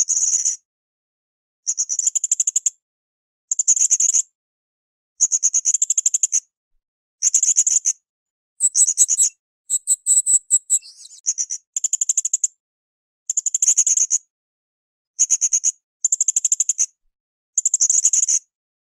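Hanging parrot (srindit) calling in high-pitched, fast-trilled chattering phrases about a second long, one roughly every two seconds. A differently patterned, higher phrase comes about halfway through.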